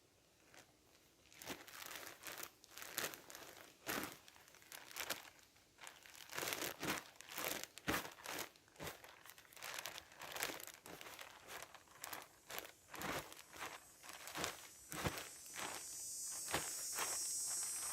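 Irregular crinkling and rustling as material is handled, with scattered taps and scrapes. A steady high hiss comes in near the end.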